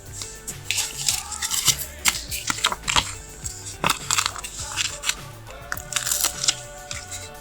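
Paper stickers being handled and peeled close to the microphone: a run of sharp rustles and taps over background music with a steady beat.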